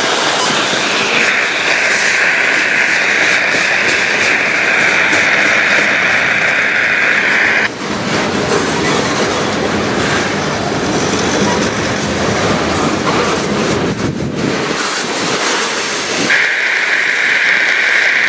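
Freight train cars rolling past with a steady rumble and clatter of wheels on rail. A high wheel squeal holds for several seconds, stops just under halfway through, and starts again near the end.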